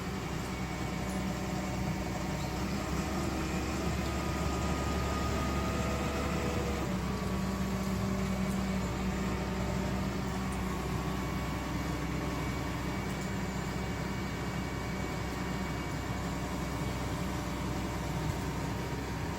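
Excavator diesel engine running steadily, with fainter whining tones that shift in pitch about a third of the way in.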